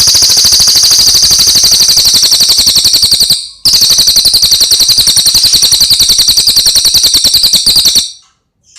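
A bird's very loud, rapid, high-pitched trill, delivered in two long runs with a short break about three and a half seconds in.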